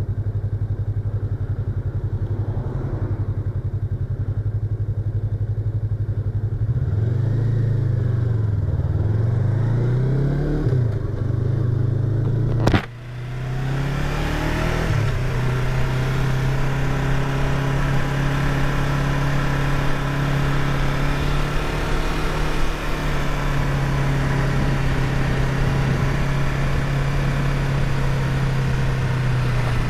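Yamaha YZF-R25's parallel-twin engine running, heard from inside the rider's helmet. Its pitch holds steady at first, then swings up and down for a few seconds. A sharp click comes about 13 seconds in, the pitch climbs, and then the engine runs at a steady pitch.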